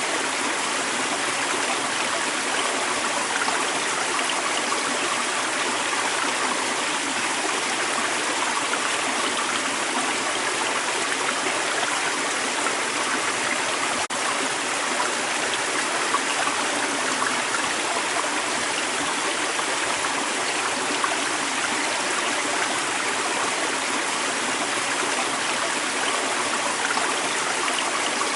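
Creek water running and babbling in a steady, unbroken rush.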